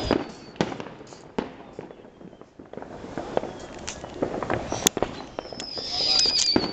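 New Year's Eve fireworks and firecrackers going off, irregular sharp bangs and pops, with a high whistle falling slightly in pitch near the end.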